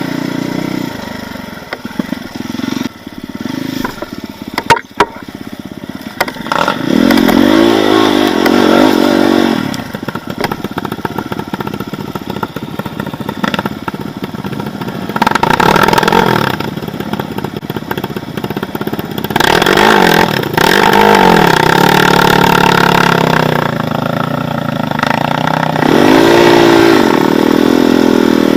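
Off-road motorcycle engine revving up and down in repeated bursts, with a few sharp knocks and clatter about five seconds in.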